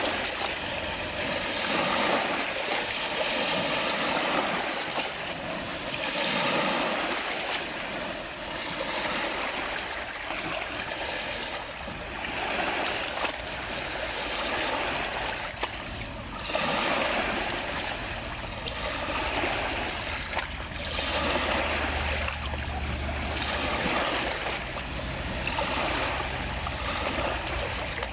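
Small lake waves lapping and splashing at the shore, the wash swelling and easing every few seconds. A faint low hum runs underneath in the second half.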